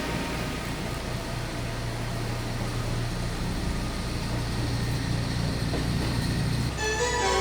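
Steady mechanical hum and rumble of a local train, with a low droning tone. Music with clear notes comes in near the end.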